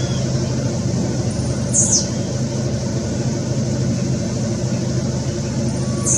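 Steady low vehicle rumble with a constant hum. Two short, high-pitched squeaks come about two seconds in and again near the end.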